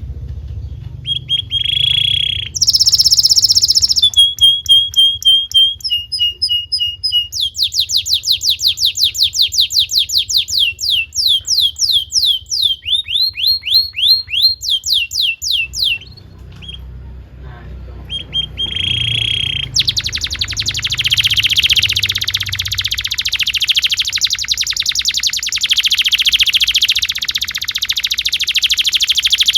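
Domestic canary singing a long song of repeated-note phrases: held whistles, runs of fast sweeping notes and rising notes. After a short pause about halfway, it sings a very fast continuous trill (a roll) for the last third.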